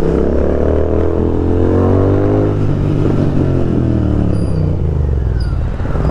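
Royal Enfield Continental GT 650's parallel-twin engine, loud through an aftermarket Thrive exhaust, revving up for about two and a half seconds and then easing off as the bike rides on.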